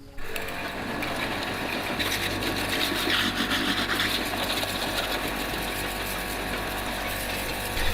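A small electric motor running steadily with a fast, even mechanical chatter, most likely a power tool at work on the motorcycle. It starts suddenly right at the beginning and gets somewhat louder a couple of seconds in.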